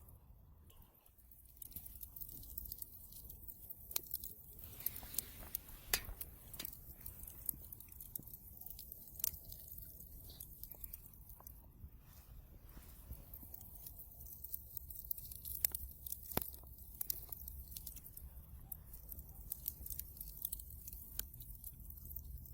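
Wood fire crackling in a fireplace: irregular sharp pops and snaps over a steady low background of the burning fire.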